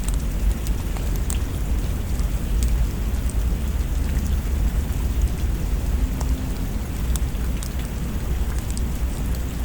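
Steady rain with a low continuous rumble underneath and scattered light ticks.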